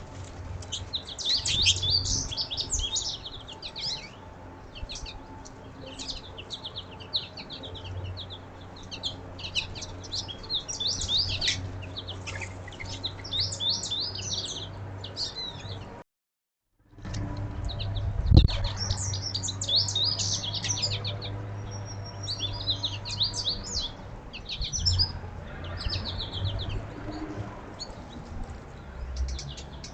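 Many small songbirds at a feeder chirping and twittering in quick, overlapping calls, over a low steady hum. Just past the middle the sound drops out completely for about a second, and a single low thump follows soon after.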